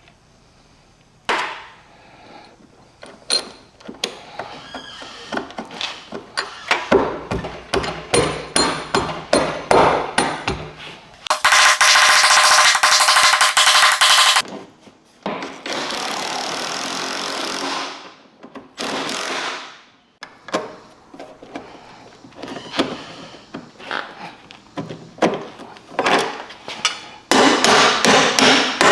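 Workshop tool noise: scattered knocks and taps, three longer stretches of steady noise from a power tool, and a fast run of hammer-like strikes near the end.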